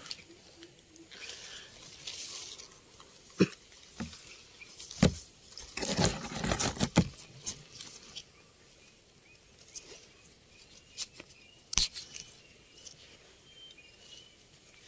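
Rustling, scraping and a few sharp knocks of gear being handled and set up by hand, with the busiest rustling about six to seven seconds in.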